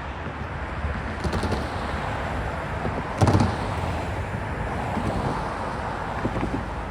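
Freight cars of a manifest train rolling past, a steady rumble of wheels on rail with a few clicks and one loud clank about three seconds in.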